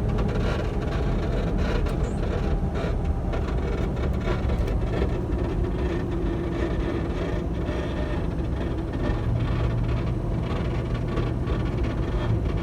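Road and drivetrain noise inside a Toyota 4Runner's cabin at speed, a steady low rumble. A low steady hum comes in about nine seconds in and holds to the end.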